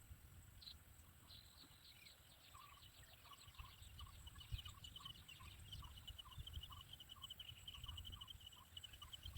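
Faint bird calls: a fast, even series of short high chirps alongside a slower row of lower notes, over a low rumble.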